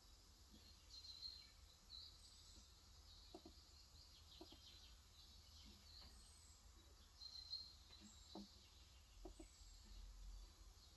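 Faint bird chirps with a few soft, scattered keystrokes on a Cox Endeavour electrostatic-capacitive (35 g) tenkeyless keyboard, typed slowly and irregularly.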